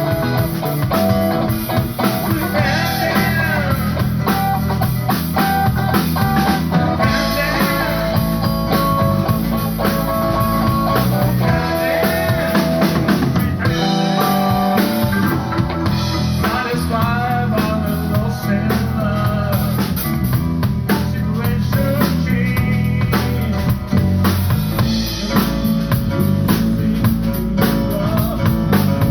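A live band playing a blues-rock song: guitar lines over drums and bass, loud and steady throughout.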